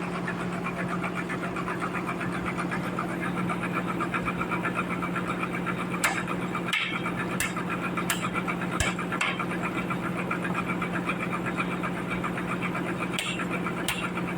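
Sawmill running: a steady engine hum with a fine rapid rhythm, and a few sharp clicks scattered through.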